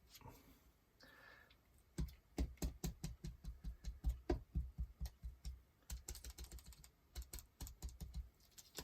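Sponge dabbing acrylic paint onto a paper journal page: a quick run of soft, irregular taps, several a second, starting about two seconds in and stopping just before the end.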